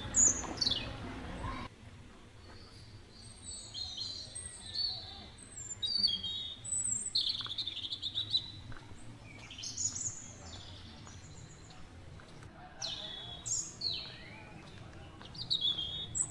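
Birds calling with short high chirps and whistled notes, some sliding down in pitch, repeated all through. A low rumble underneath cuts off abruptly about two seconds in.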